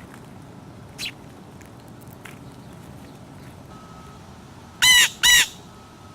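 A bird calls twice in quick succession near the end, two loud, short squawks about half a second apart, with a single fainter call about a second in.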